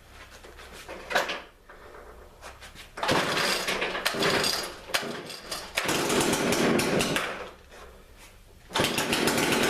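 Chainsaw on a homemade Alaskan sawmill running in three bursts of a couple of seconds each, with quieter gaps between.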